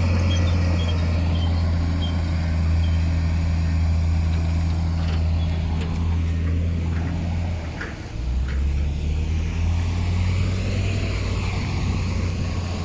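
Heavy diesel engine running with a steady low hum; about eight seconds in its note drops lower. A few light knocks come shortly before the change.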